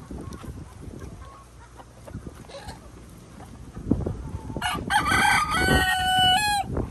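A rooster crowing once, a single call of about two seconds beginning about two-thirds in, holding one pitch and then rising at the end. Low rumbling and knocks run underneath.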